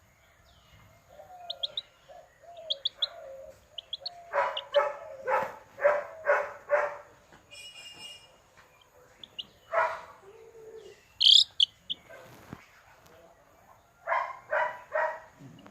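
Chicken clucking in runs of short repeated calls, about two a second, with thin high chirps between and one louder high-pitched call midway.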